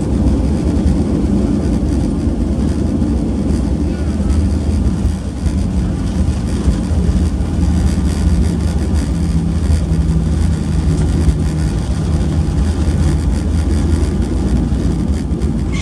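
Steady cabin rumble of a Boeing 737-800 taxiing after landing, its CFM56 engines running at idle, with a low hum through the middle.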